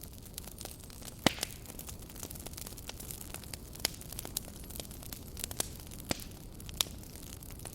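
Campfire crackling: irregular sharp pops and snaps over a steady low hiss and rumble, with the loudest pop about a second in.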